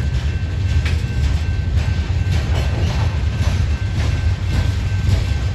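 Freight train cars, covered hoppers and tank cars, rolling past: a steady low rumble with wheels clicking over rail joints, and a faint steady high whine.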